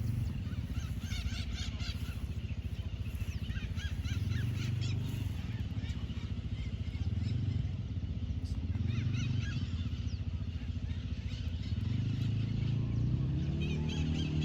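Double-collared seedeater (coleiro) singing in bouts of quick, thin, repeated chirping notes, over a steady low engine-like rumble that is louder than the song.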